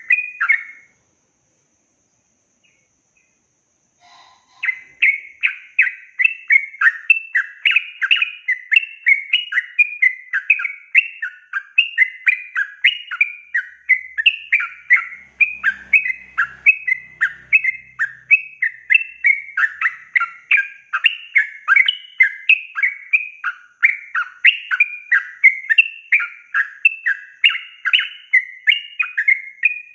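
Yellow-vented bulbul (trucukan) singing a long, fast, unbroken run of repeated chirping notes. A brief phrase opens, then a pause of a few seconds, and the song resumes about four seconds in and carries on without a break.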